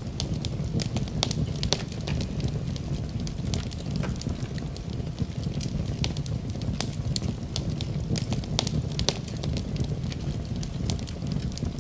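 Wood fire crackling, with frequent irregular sharp pops and snaps over a steady low rush.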